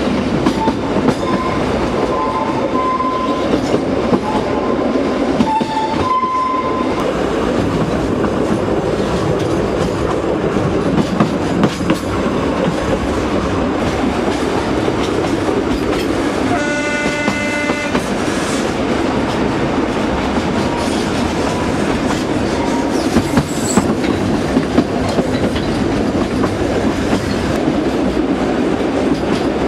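Narrow-gauge train hauled by diesel locomotive L45H-098, running steadily with the rumble and clatter of the carriages on the track. There are brief high tones in the first several seconds, and a single horn blast of about a second and a half comes just past the middle.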